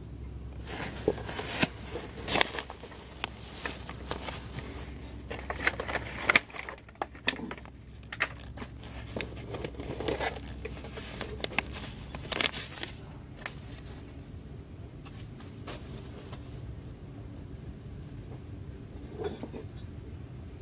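Freight train rolling slowly past: a steady low rumble with irregular clicks and crackles, thickest in the first half.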